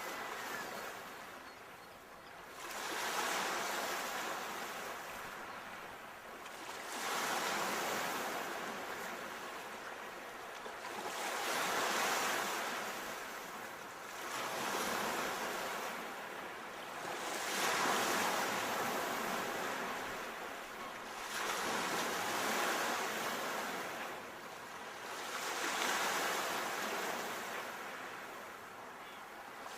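Ocean waves breaking and washing up the shore, the surf hiss swelling and fading in a regular rhythm, about one surge every four seconds.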